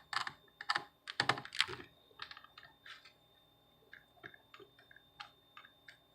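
Small screwdriver clicking and scraping on the single screw holding a laptop's wireless card as it is unscrewed: a run of irregular light clicks and taps, louder in the first two seconds.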